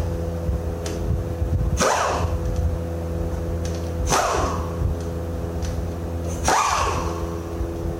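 A motor or engine running steadily, with three sudden swishing hits a little over two seconds apart, each falling in pitch as it dies away.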